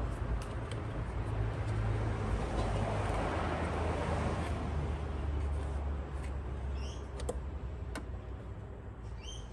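Steady low rumble with a few sharp clicks of small parts being handled about seven and eight seconds in, and a small bird chirping twice.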